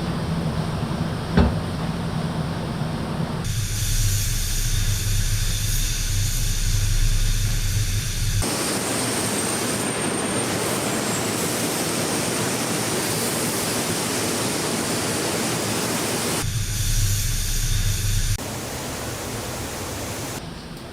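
Car-factory paint-shop noise: a steady hiss with a low machine hum, changing abruptly several times as the sound jumps between clips, with one sharp knock about a second and a half in.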